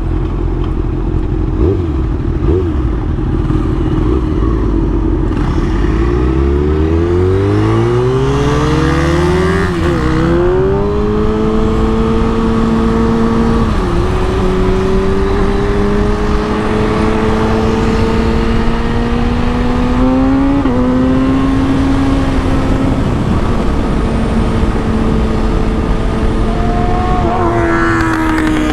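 Kawasaki ZX6R inline-four engine under hard acceleration, with wind rumble on the microphone. About six seconds in its pitch climbs steeply to a high rev and drops sharply at an upshift. It then holds a high, steady note that creeps upward, with brief dips at further shifts and another drop near the end.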